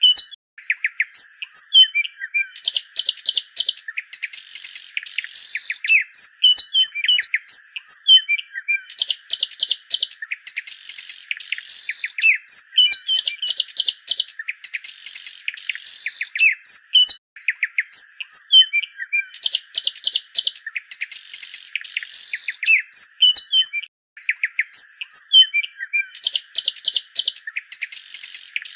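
Birdsong: a phrase of chirps, quick sweeping whistles and rapid trills, repeated over and over every three to four seconds.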